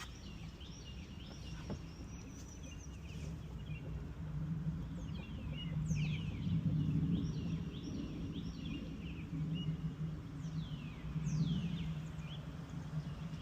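Birds chirping in quick downward-sweeping calls, in two clusters, over a steady low hum.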